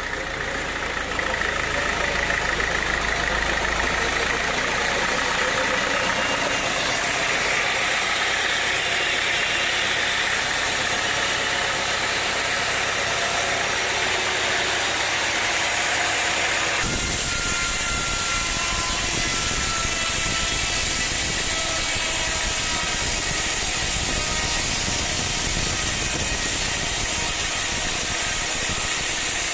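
Engine-driven sawmill machinery running steadily. About halfway through, the sound changes abruptly to a harsher noise with more hiss.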